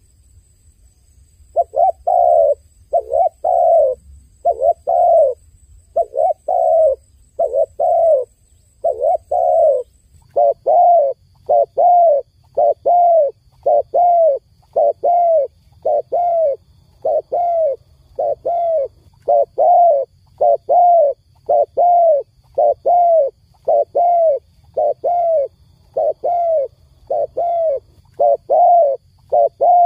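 Dove cooing: short notes, each falling slightly in pitch, repeated steadily about one and a half times a second after a brief pause at the start.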